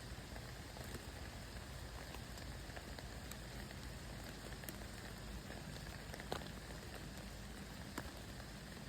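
Steady rain falling, an even hiss with many small drop ticks scattered through it. Two louder single drips stand out, one about six seconds in and one about eight seconds in.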